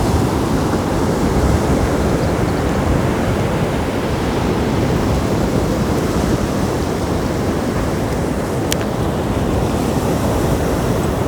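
Sea surf washing on the shore, mixed with wind buffeting the microphone: a steady, loud rushing noise. A single short click about three quarters of the way through.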